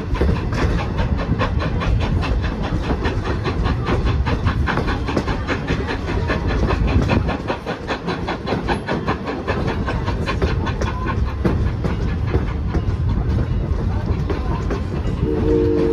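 Steam-hauled passenger train running, its coach wheels on the rails making a steady rhythmic clickety-clack over a low rumble. Near the end the locomotive's whistle sounds a held chord of several notes.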